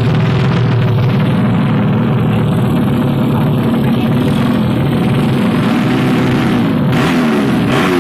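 Small Yamaha Jupiter underbone motorcycle engines running loudly in a steady drone, with several engine notes overlapping. Near the end, engines rev up in rising sweeps of pitch.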